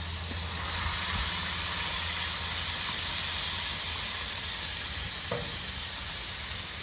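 Smashed burger patties sizzling steadily as they fry, with a steady low hum beneath.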